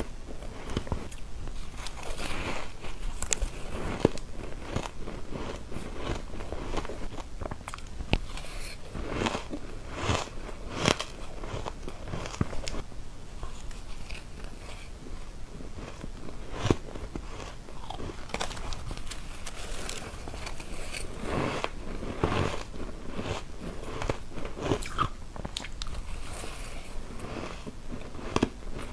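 Close-miked bites into soft, frosty white ice chunks: irregular crisp crunches, several a second at times, with chewing between bites.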